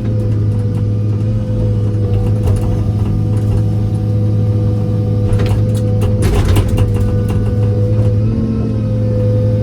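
John Deere excavator's diesel engine running steadily under the operator's control, with a steady hum and a higher tone over it. A cluster of clanks and rattles comes about five to seven seconds in, and the engine note shifts slightly a little after eight seconds.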